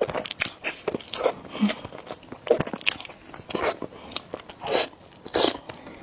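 Close-miked eating of spicy noodles: a string of irregular bites and chewing sounds, each short and sharp.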